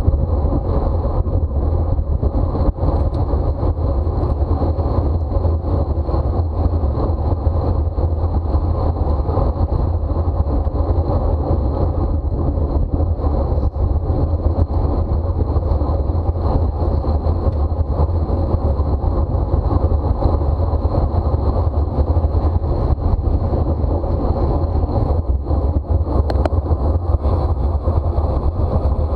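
Wind rushing over the microphone of a camera riding on a racing bicycle: a loud, steady, low noise.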